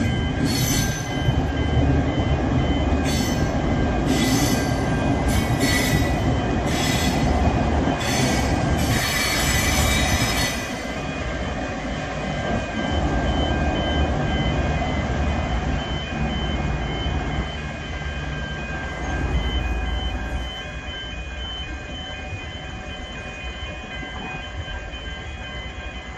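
V/Line VLocity diesel multiple unit passing slowly, its diesel engines and wheels rumbling steadily over a continuous high-pitched wheel squeal. Sharp clicks and clatters from the wheels come through the first ten seconds or so. The rumble eases off in steps toward the end.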